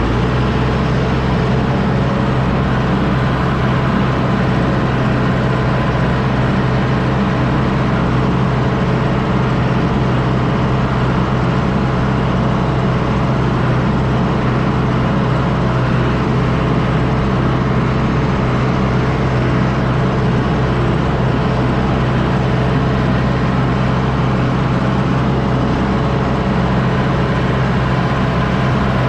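John Deere 6110D tractor's diesel engine running steadily under load while it pulls a disc harrow.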